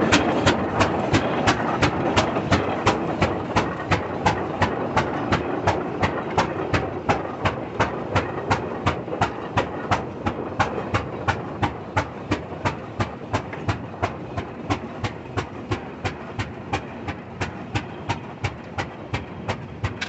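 Old slow-running engine firing in a steady, even beat of about three sharp exhaust pops a second, growing gradually quieter.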